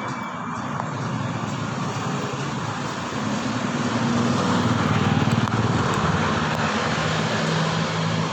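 Motor vehicle engine running on the road, a steady drone that swells about midway through, with a rush of wind and road noise.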